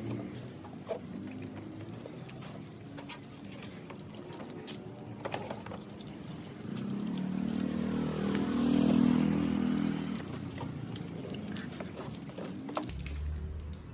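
Water pouring and dripping with scattered clicks and handling noises during washing of a motorcycle; it gets louder for a few seconds in the middle.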